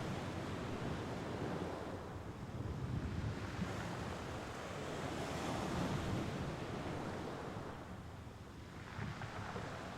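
Mediterranean Sea waves washing onto the shore, the surf swelling and easing every few seconds.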